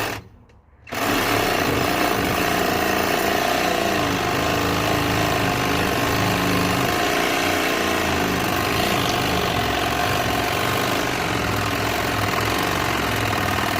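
Cordless reciprocating saw (sawzall) running steadily as it cuts through metal, starting up about a second in.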